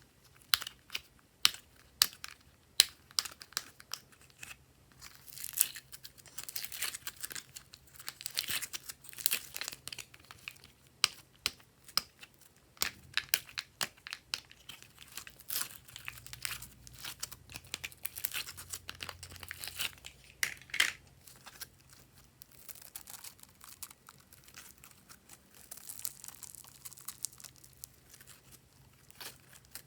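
Glossy slime being squished, folded and stretched by hand, giving irregular sticky clicks and crackling pops.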